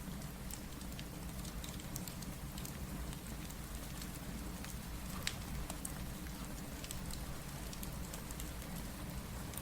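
Steady rain with a low rumble underneath, dotted with scattered sharp pops and crackles from a wood fire; the sharpest pop comes about five seconds in.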